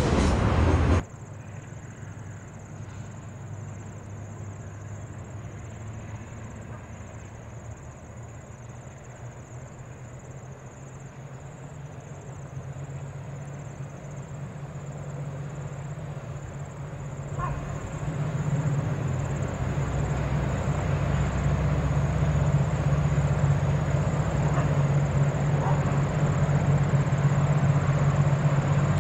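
A train's running noise cuts off about a second in. Then a train approaches, heard as a low, steady engine hum that grows louder from about halfway and keeps building.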